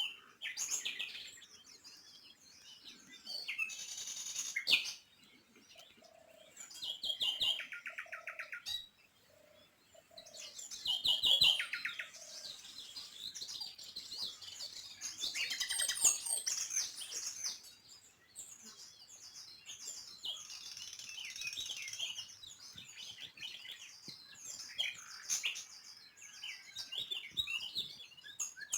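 Small songbirds chirping and calling, several birds overlapping, with short fast trills of rapidly repeated notes.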